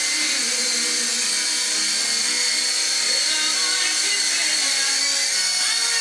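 SYMA S032 radio-controlled toy helicopter in flight: a steady high whine from its small electric motors and rotors.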